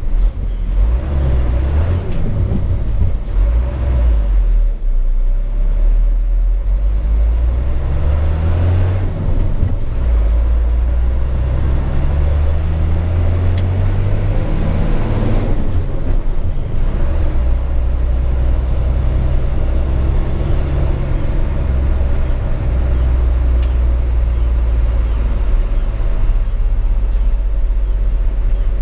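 Hino 500 FM 260 JD truck's six-cylinder turbo diesel heard from inside the cab, its pitch climbing and dropping back several times as it accelerates, then running at a steady pitch for the last third.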